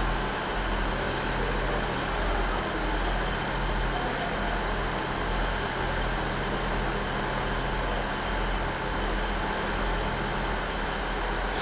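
Class 158 diesel multiple unit idling while ready to depart, a steady low engine hum with no change in pitch.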